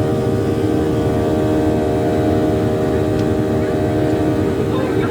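Boeing 737 jet engines heard inside the passenger cabin during the climb after takeoff: a steady drone with a stack of steady humming tones over a low rumble.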